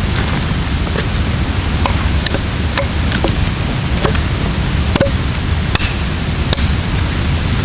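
Axe strikes chopping into a thick spruce log: short sharp knocks, irregular, about one or two a second, over a steady rushing noise.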